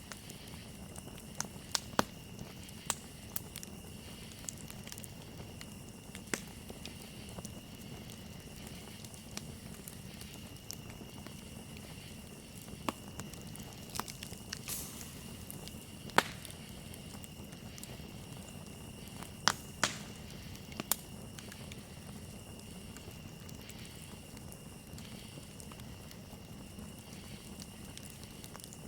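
Campfire crackling, with scattered sharp pops and a few louder snaps about two-thirds of the way through, over a steady high chirring of crickets.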